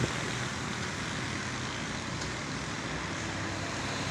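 Airbus A320-214 landing, its CFM56 engines and the rushing air making a steady, even roar.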